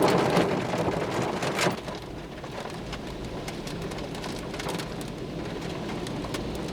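Heavy rain pouring in a violent thunderstorm, with many fine drop ticks over a steady hiss. A louder rush in the first second and a half or so ends with a sharp crack, then the downpour settles to a steady level.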